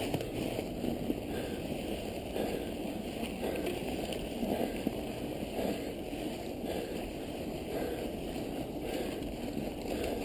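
Steady rushing noise of a mountain bike being ridden through snow, with tyres churning the snow and the ride's noise washing against the microphone.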